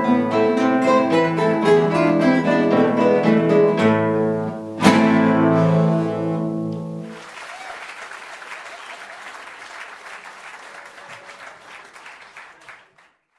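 Guitar ensemble playing the close of a piece, ending on a sharp final chord about five seconds in that rings out. Audience applause follows, fading and cutting off near the end.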